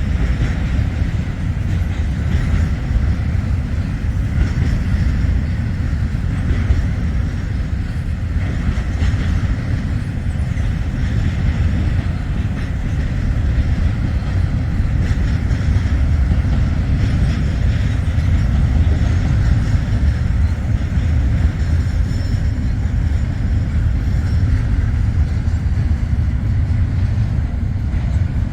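Freight train cars rolling past on the rails: a steady, loud low rumble with faint clacking of wheels over the rail joints.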